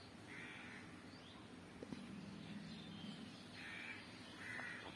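A bird calling faintly three times with short, harsh calls: one near the start and two close together near the end.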